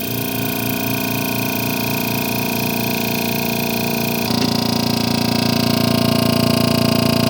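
Reveo vacuum tumbler marinator's vacuum pump running steadily as it draws the air out of the sealed tumbler bucket. About four seconds in, its sound shifts and grows slightly louder as the vacuum builds.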